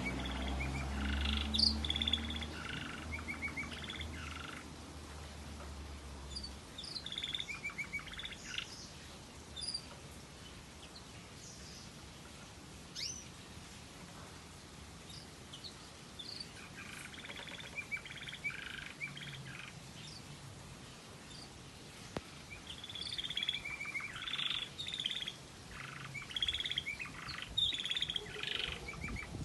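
A variegated red factor canary singing in several bouts of rapid trills and chirps, with pauses between the bouts; the owner wonders whether it is a Waterslager-style song. A low steady hum sounds under the first few seconds.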